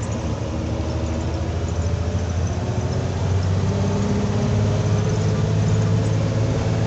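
Truck engine running with a steady low hum that grows slightly louder past the middle.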